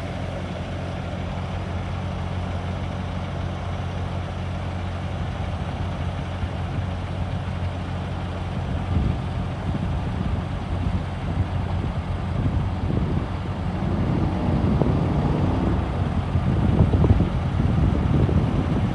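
Truck engine running, steady at idle for the first half, then louder and less even from about halfway in, rising further near the end.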